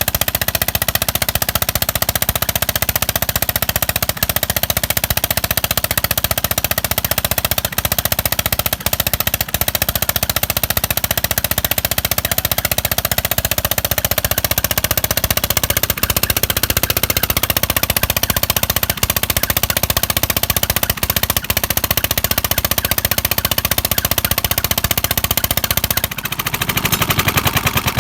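Stationary diesel engine driving a tubewell water pump, running steadily with a fast, even beat. About two seconds before the end its beat slows and the separate firing pulses become distinct.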